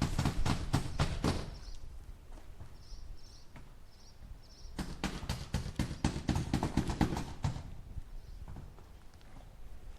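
Hammer driving nails into wood in quick runs of strikes, about five a second: one run fading out about a second and a half in, another from about five seconds in to about seven and a half, with a few lighter taps after.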